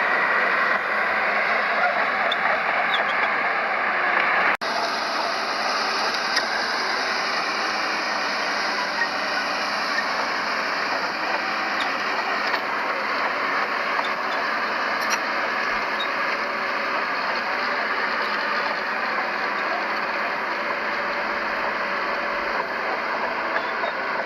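Heavy earthmoving machinery, a bulldozer and dump trucks, with their diesel engines running steadily under work.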